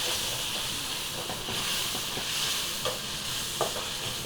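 Masala of onion, tomato, mint and coriander leaves sizzling in hot oil in a pan as it is stirred, the spoon knocking against the pan a couple of times.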